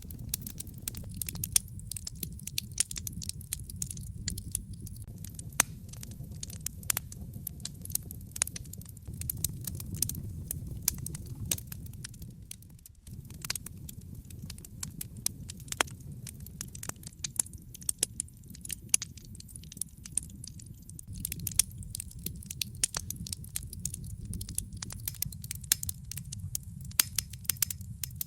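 Wood fire crackling, with frequent irregular sharp pops and snaps over a steady low rumble of burning; the rumble drops away briefly about halfway through.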